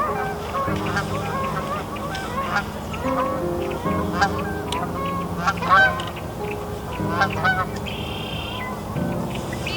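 A flock of geese honking, many short calls overlapping and repeating without a break.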